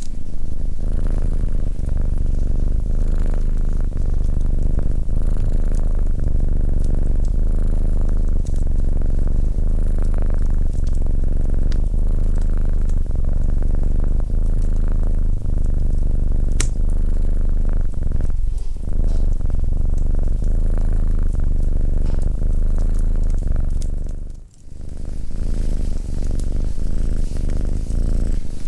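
Domestic cat purring loudly and continuously, with a brief break about 24 seconds in. A few faint sharp clicks sound over the purr.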